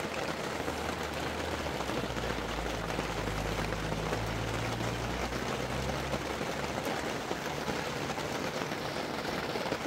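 Steady rain falling on a canvas tent, with a low hum that comes in about a second and a half in and fades out around six seconds.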